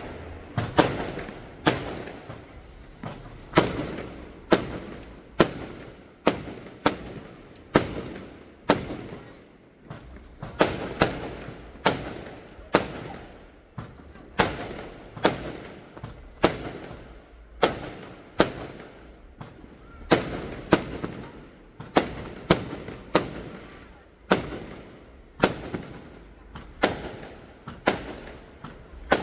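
Fireworks exploding: a steady string of sharp bangs, about one or two a second, each trailing off in a short echo.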